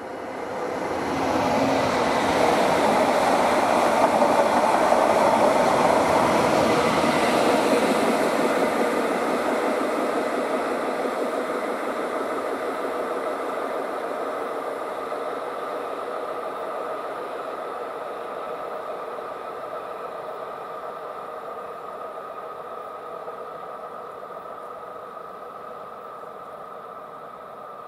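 Electric multiple-unit passenger train passing and running away along the track: wheels rumbling on the rails with a steady motor whine, loudest in the first several seconds and then fading slowly as it recedes.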